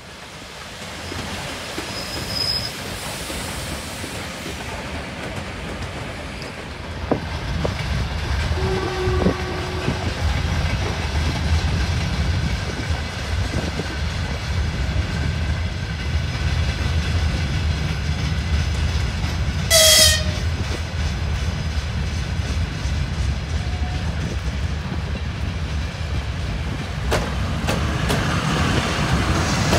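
Passenger train with a red locomotive pulling into the station: a low rumble of locomotive and wheels on rails that grows louder about a quarter of the way in. About two-thirds of the way through comes one short, high-pitched horn blast, the loudest sound.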